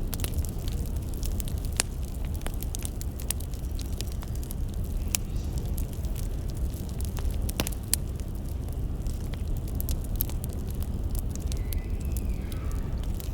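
Wood fire crackling: sharp, irregular pops and snaps of burning firewood over a steady low rumble.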